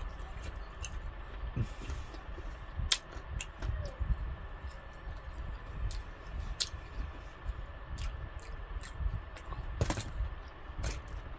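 Close-miked eating of KFC fried chicken: chewing with sporadic sharp clicks and smacks over a low steady rumble.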